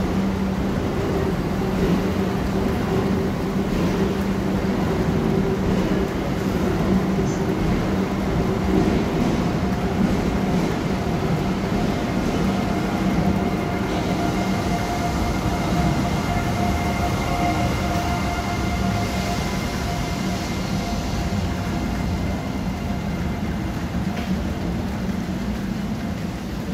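Renfe Alvia train rolling past along a station platform: a steady rumble with a low hum that weakens about halfway through.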